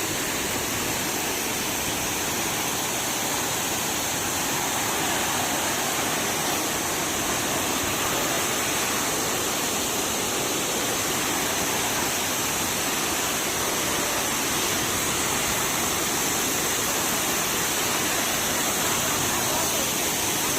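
Large waterfall falling from a height, a steady rush of splashing water.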